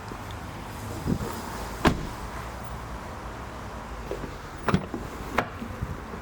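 Several sharp clunks of a car's doors and latches being worked, over a steady low rumble; the loudest clunk comes about two seconds in.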